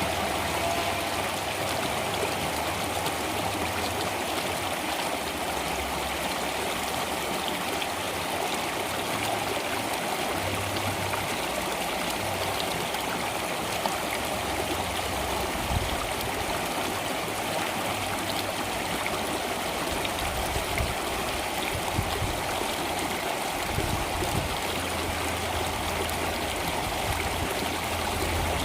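Stream water flowing steadily, an even rushing and trickling with a few slightly louder splashes.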